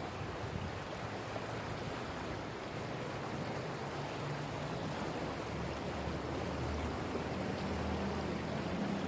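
Sea waves washing steadily against the shore, with the low drone of a dolphin-watching tour boat's engine coming in about three seconds in and growing louder toward the end.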